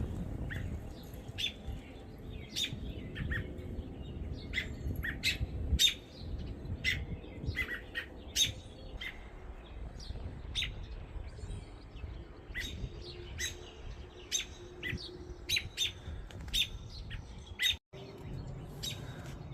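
American robins giving short, sharp chirp calls, repeated about one to two times a second, over wind rumbling on the microphone. The sound cuts out for a moment near the end.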